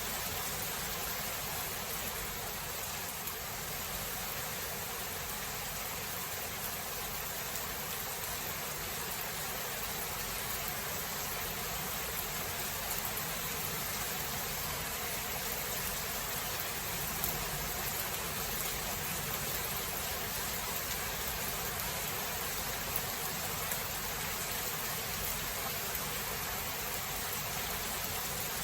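Steady rain falling, an even hiss with a few faint drip-like ticks and no thunder.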